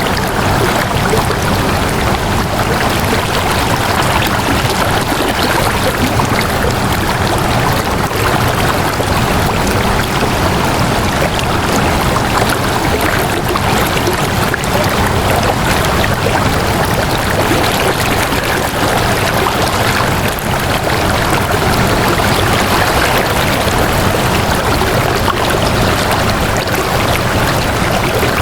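Flowing water rushing steadily and evenly, like a stream.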